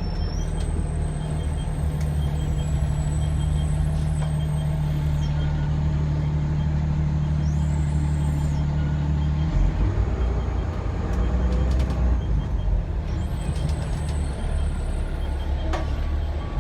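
Fire truck's diesel engine droning steadily, heard from inside the cab while the truck drives, with a shift in the engine's note about halfway through.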